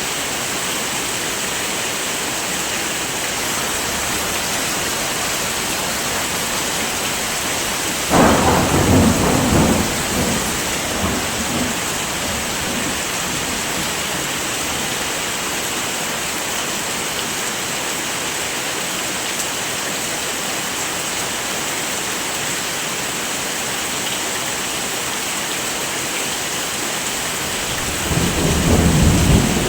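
Steady heavy rain, an even hiss, with two rolls of thunder: one breaking suddenly about eight seconds in and rumbling for about two seconds, and another starting near the end.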